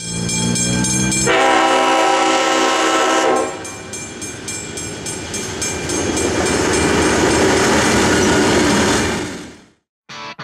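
A train horn sounds, first a lower note and then a louder multi-note chord that stops about three seconds in. A train then runs past with a rushing noise and regular wheel clicks over the rail joints, fading out about a second before the end.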